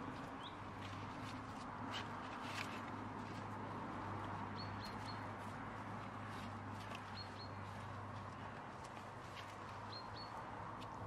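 Garden ambience with a steady low hum and hiss. A small bird gives short, high chirps in twos and threes every few seconds, and a few faint soft ticks come in between.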